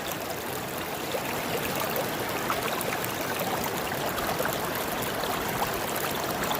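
River water running steadily, with a couple of faint clicks.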